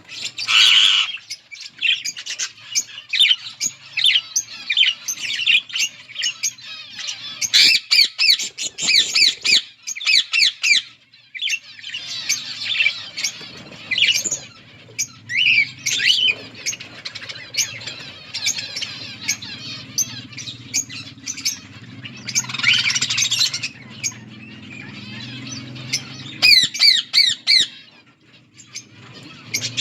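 A flock of budgerigars chattering and squawking continuously, with many overlapping quick chirps and warbles.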